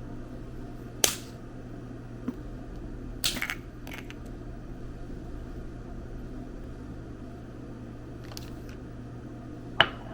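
A steady low hum with a handful of sharp, brief clicks or knocks: one about a second in, a cluster around three seconds, and a loud one near the end.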